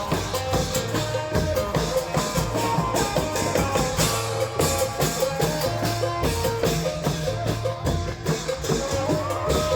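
Isan klong yao long-drum band playing: a steady, driving drum rhythm with held melody notes over it.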